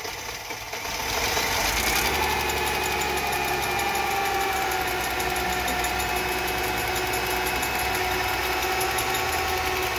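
2001 Mercedes-Benz C320's 3.2-litre V6 cranking and catching about a second in, then idling steadily. This is its first start after a valve and timing-chain job, with oil still reaching the lifters.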